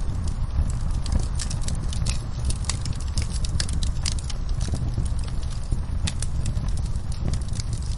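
Wood fire crackling, with many irregular sharp pops and snaps over a steady low rumble of the burning fire.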